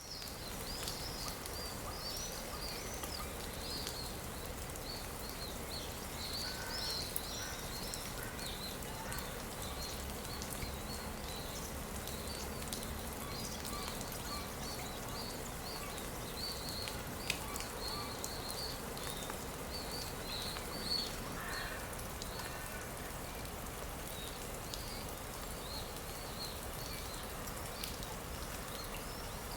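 Forest ambience: many small birds chirping in quick, high repeated calls, with a few lower calls, over a steady rush of water. A single sharp click sounds about 17 seconds in.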